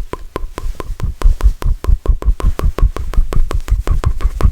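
Rapid mouth clicks and pops right at the microphone, about eight a second, with deep thumps on many of them from about a second in.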